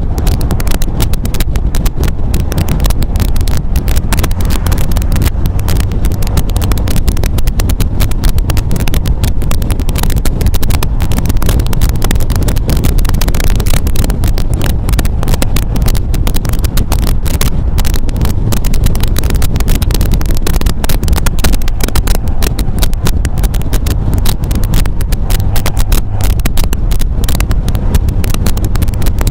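MGA roadster's four-cylinder engine running steadily while driving, with a heavy low rumble and wind buffeting the microphone.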